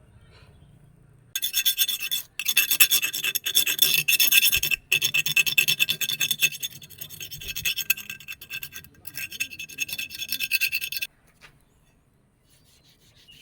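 A metal file rasping in quick strokes on a steel knife blade, the blade ringing at a few steady pitches under the scrape. It starts about a second and a half in, pauses briefly twice, and stops a couple of seconds before the end.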